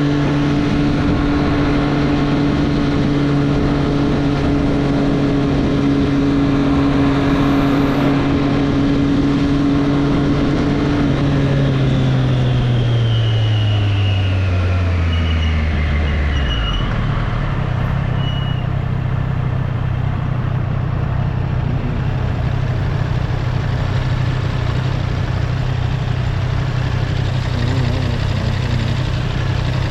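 2024 Triumph Street Triple's inline three-cylinder engine running at a steady pitch, then dropping in pitch as the bike slows, about midway, and settling to a steady low idle.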